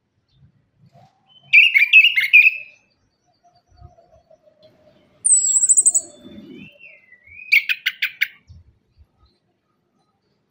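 Chestnut-capped thrush (anis kembang) singing in three short phrases a few seconds apart: a warbled phrase, then a high trill, then a quick run of notes.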